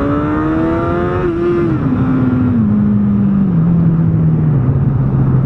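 2012 Honda CBR1000RR inline-four sportbike engine with a Taylormade GP exhaust, heard from the rider's seat: the revs rise briefly, then the throttle closes about a second in and the pitch falls in small steps as the bike slows. Wind rush on the helmet microphone runs under the engine.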